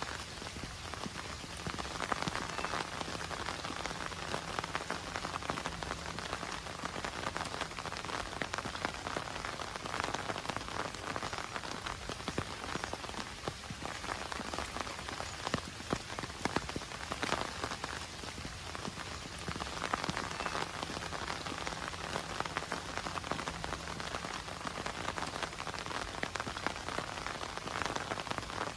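Heavy rain falling and pattering on surfaces, a dense steady hiss thick with individual drop hits.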